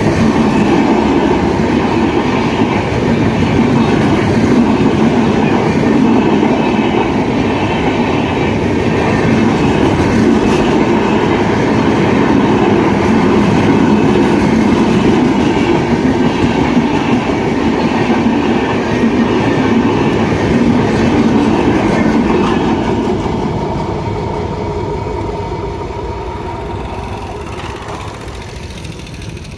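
Electric-locomotive-hauled train passing close by at speed: a steady rumble of wheels and coaches on the rails with some clickety-clack, fading over the last several seconds.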